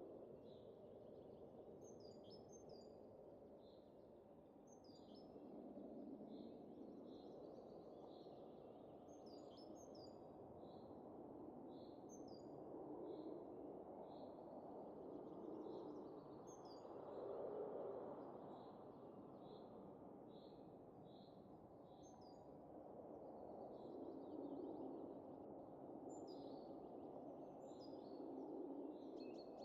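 Soft winter wind rising and falling in slow gusts, with a small bird chirping short, high notes again and again over it.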